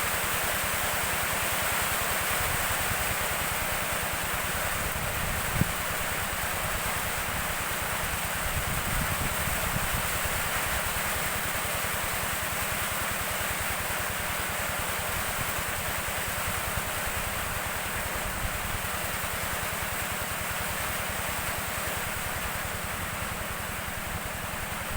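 Steady hiss of rain falling, with wind rumbling on the microphone and a single knock about five and a half seconds in.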